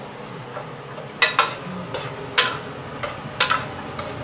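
Diced salted fish frying in oil in a wok, with a steady sizzle. A metal ladle stirs and knocks against the wok about five times.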